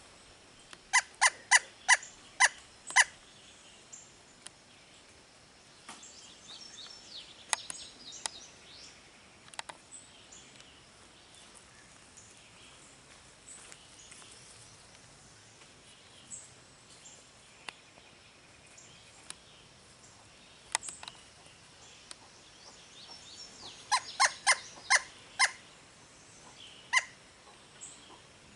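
Pileated woodpecker calling: two runs of about six loud, short, evenly spaced notes, one about a second in and one near the end, with faint high chirps of small birds in between.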